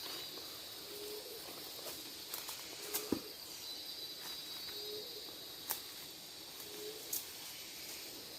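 Tropical forest ambience: insects keep up a steady high buzz while an animal repeats a short low note about every one and a half to two seconds. A few sharp clicks and snaps come in the middle, the loudest about three seconds in.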